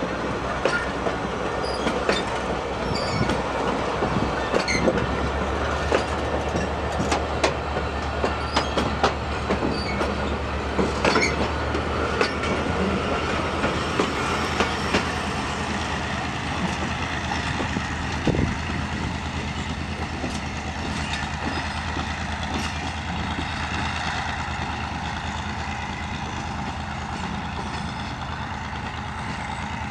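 A diesel-hauled passenger train rolling past close by, its wheels clicking over rail joints with a light wheel squeal over the steady drone of the locomotive's diesel engine. The clicking thins out and the sound eases off over the last third as the train draws away.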